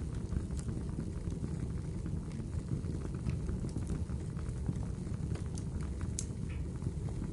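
Wood fire burning in a fireplace: a steady low rumble with many small scattered crackles, and a few louder pops, one near the start and two close together near the end.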